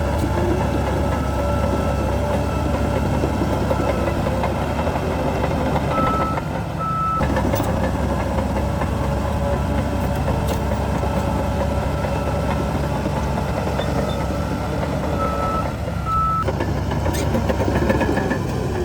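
Heavy diesel earthmoving machinery running steadily, with a reversing alarm beeping; its beeps stand out in pairs about six seconds in and again about fifteen seconds in.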